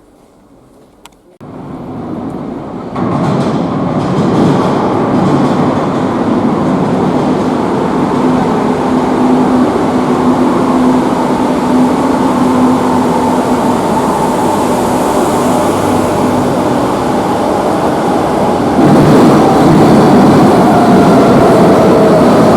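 Madrid Metro Line 5 train coming through the underground station: near quiet at first, then the train's rumble swells within a couple of seconds and stays loud, with a steady hum in the middle and a falling whine near the end.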